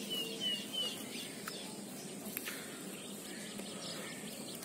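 Outdoor field ambience: a bird gives three quick, high chirps in the first second over a steady background hiss, with a couple of faint clicks later on.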